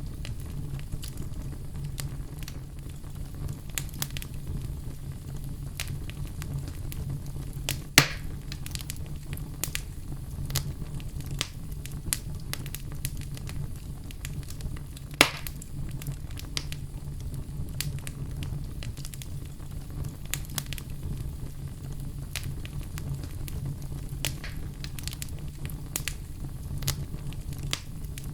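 Wood fire crackling, with frequent small snaps over a steady low rumble. Two louder pops stand out, about eight and fifteen seconds in.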